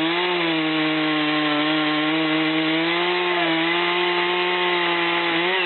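Chainsaw running at high revs, cutting into wood. Its pitch holds nearly steady with small sags under load, then drops sharply right at the end as the throttle comes off.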